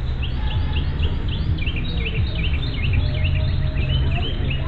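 A songbird singing a quick run of short, hooked chirping notes over a steady low rumble.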